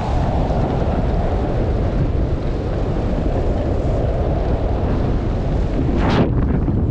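Heavy, steady wind buffeting the camera microphone during a fast downhill ride on snow. About six seconds in, a brief hiss of snow sliding is heard.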